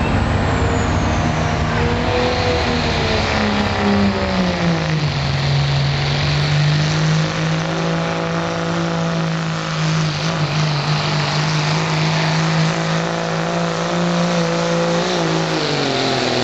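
Diesel truck's engine running hard under load while pulling the sled. Its pitch sags about four seconds in, holds steady for most of the run, then falls off again near the end.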